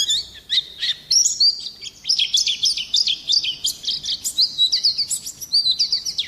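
Small songbird song: a rapid, continuous stream of high chirps, short whistled sweeps and trills, with barely a pause.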